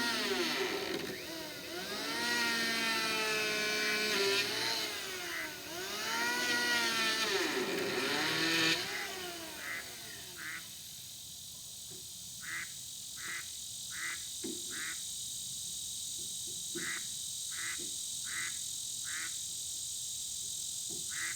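A motor revving up and down several times, its pitch rising and falling in long swells, then stopping about nine seconds in. After that, insects chirp in short groups over a steady high insect drone.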